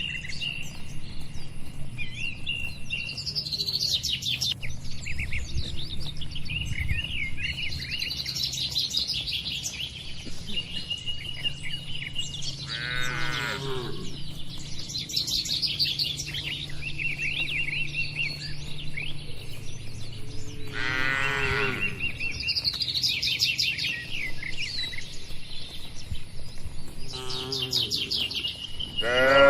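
Cattle mooing: long calls that fall in pitch, about 13 seconds in, again about 21 seconds in, and once more at the very end. Small birds chirp throughout.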